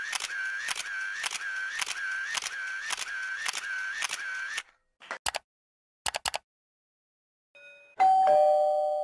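Camera shutter sound effect clicking repeatedly, about twice a second for five seconds, then a handful of computer keyboard key clicks. Near the end a doorbell rings a two-note ding-dong that fades away.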